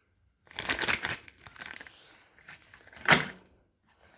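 Small parts being handled and rummaged through, with crinkling and light clinking. There are two louder bursts, about half a second in and about three seconds in.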